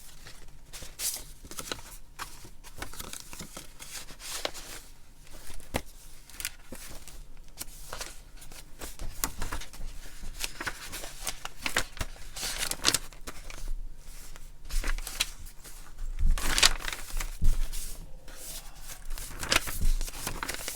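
Pages of a handmade paper junk journal being turned and handled quickly: irregular rustling and crinkling of paper, with a few louder soft knocks about two-thirds of the way through.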